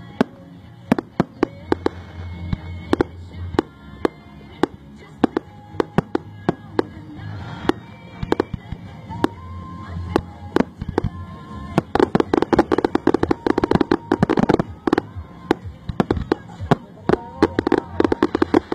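Fireworks going off: a string of sharp bangs from bursting shells, thickening into dense rapid crackling about twelve seconds in and again near the end.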